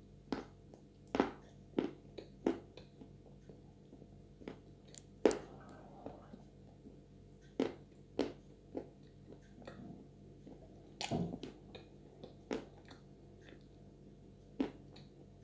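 Close-miked mouth sounds of someone chewing a soft, sticky chocolate Chuy clay paste with the mouth closed: quiet wet clicks and smacks at irregular moments, with no crunch.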